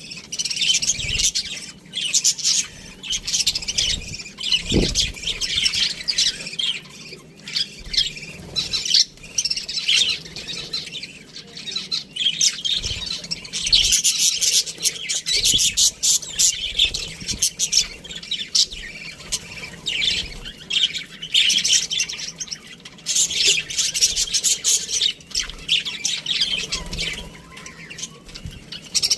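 A flock of budgerigars chattering and chirping, many birds at once, in surges with short lulls between. A few soft low thumps sound through it.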